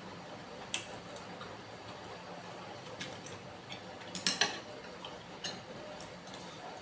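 Close-miked eating sounds: scattered sharp clicks and clinks of cutlery against a bowl, with a quick cluster of them about four seconds in being the loudest.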